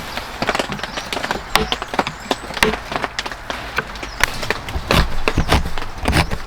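Hand tools working wood: irregular sharp knocks and scrapes, at the stage of making a butterfly inlay.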